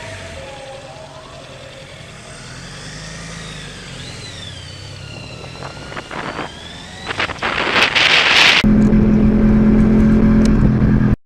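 An emergency siren wails with sweeping pitch over a vehicle engine. About eight and a half seconds in, an engine becomes loud and runs at steady high revs, then cuts off suddenly.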